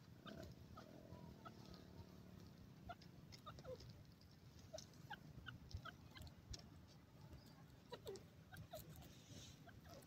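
Faint, scattered short bird chirps and a few soft downward-sliding notes over a low steady rumble.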